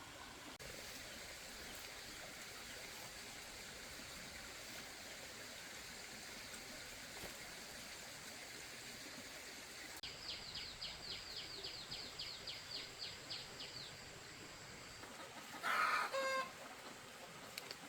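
Chickens calling. A rapid run of about four high chirps a second lasts for some four seconds midway, and a short, loud call comes near the end.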